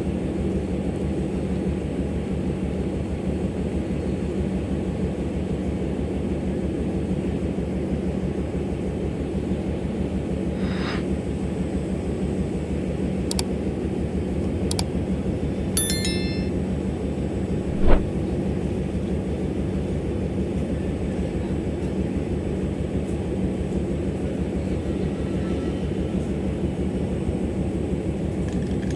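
Diesel locomotive engine running with a steady low throb. A single sharp knock comes about two-thirds of the way through, with a few faint clicks shortly before it.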